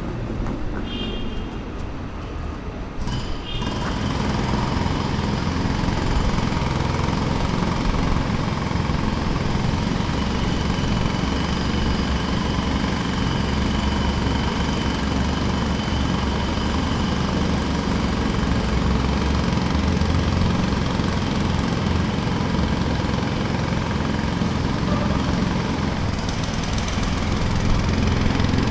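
Construction machinery running steadily, an engine-like drone with a rattle, which comes in loud about three and a half seconds in after a quieter start.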